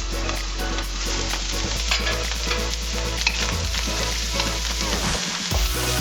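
Chicken fried rice sizzling in sesame oil in a hot wok while it is stirred, with a couple of sharp clicks of the utensil against the pan about two and three seconds in.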